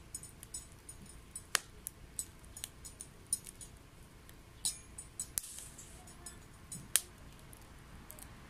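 Wet wood burning in a homemade secondary-combustion wood stove, crackling with irregular sharp pops and snaps. A loud pop comes about one and a half seconds in and another near seven seconds, with a short hiss in between.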